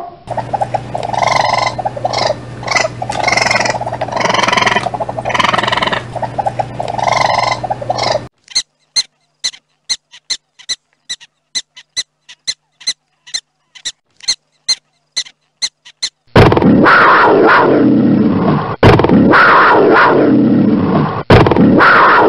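A sequence of animal calls: a sea lion barking repeatedly, then a prairie dog giving a long run of short, sharp barks about three a second, then from about two-thirds of the way in a panther growling and roaring loudly in repeated bouts.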